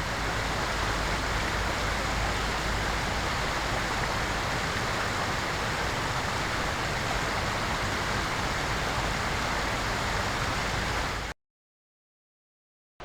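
Steady rushing noise like rain or running water, even in level, cutting off abruptly about eleven seconds in.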